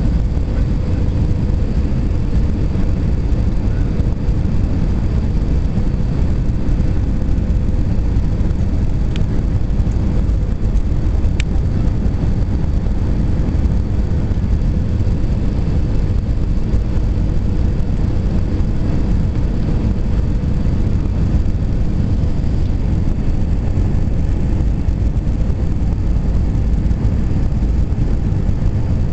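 Airplane in flight on approach to landing: a steady, unchanging low rumble of engines and rushing air with a faint steady hum above it.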